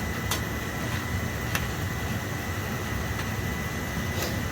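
Oil-fired boiler burner running with a steady low rumble and hiss. A faint steady high tone runs under it, and there are a few light clicks.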